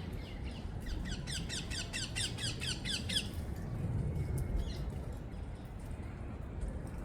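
Parakeets giving a rapid run of harsh squawks, about six a second for roughly two seconds, with a few fainter calls before and after, over a steady low background rumble.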